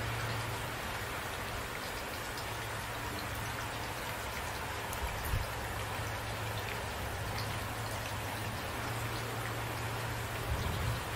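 Steady rain with scattered individual drops ticking, and a couple of brief low thumps, one about halfway through and one near the end.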